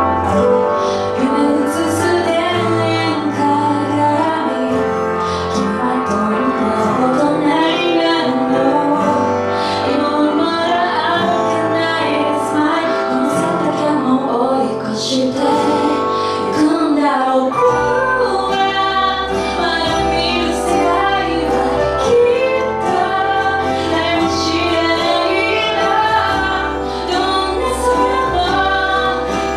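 A woman singing a song live over instrumental accompaniment.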